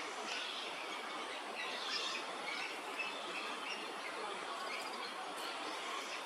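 Birds calling with many short chirps over a steady background hiss.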